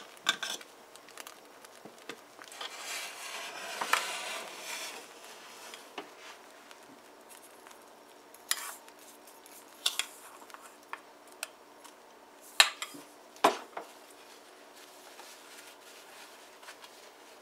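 Spoon stirring porridge in a cooking pot, with a few seconds of soft noise early on and then several sharp knocks of the spoon against the pot.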